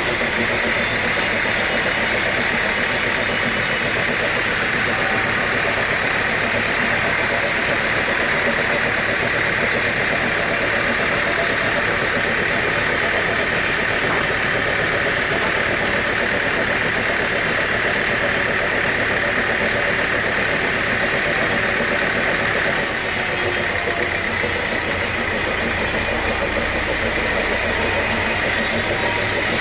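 Engine-driven sawmill machinery running steadily. The sound changes abruptly about 23 seconds in.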